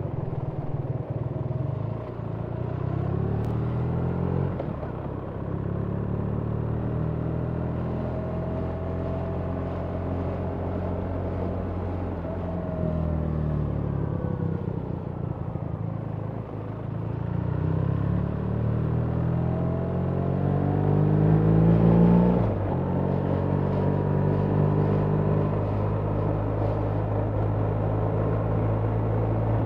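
BMW R 1300 GS boxer-twin engine running under way, its pitch rising and falling with the throttle several times. It climbs to its highest about 22 seconds in, then drops suddenly as the revs fall.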